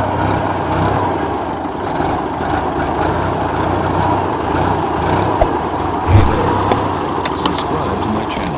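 Al-Ghazi tractor's diesel engine running steadily, with a louder low thump about six seconds in and a few short clicks near the end.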